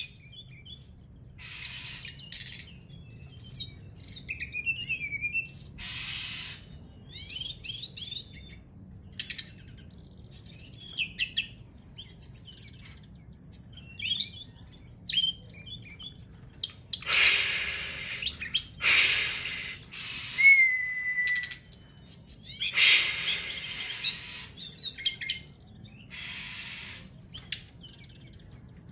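Caged songbird practising its song: bursts of rapid high chirps, twitters and trills separated by short pauses, with a few louder harsh phrases and a single short steady whistle about two-thirds of the way through.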